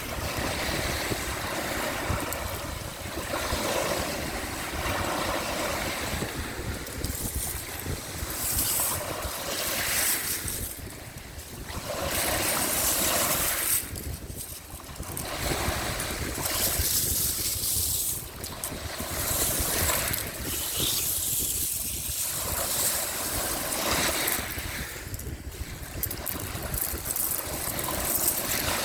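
Sea waves washing onto the shore, swelling and easing every few seconds, with wind rumbling on the microphone.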